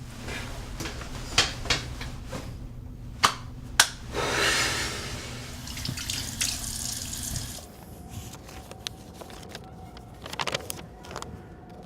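Water running briefly, with several sharp clicks and knocks before it and a few more later. A low steady hum stops about seven and a half seconds in.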